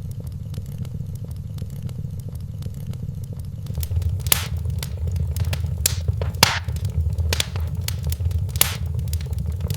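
Wood fire crackling in a fireplace, with a dense run of small clicks and several sharper pops from about four seconds in, over a low steady rumble.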